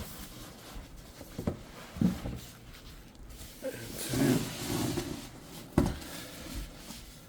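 Cardboard box and foam packing being handled: a couple of dull knocks in the first two seconds, a stretch of rustling a little past halfway, and a sharper knock near the end.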